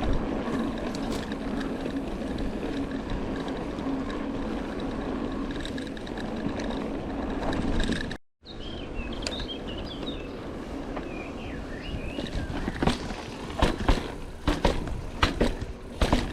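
Mountain bike being ridden: a steady rolling noise with a low hum for about eight seconds, then, after a brief cut, birds chirping and the bike clattering over rough ground, with sharp knocks and rattles near the end.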